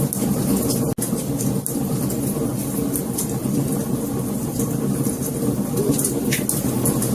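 Wood fire burning with a steady low roar and frequent sharp crackles and pops. The sound cuts out for an instant about a second in.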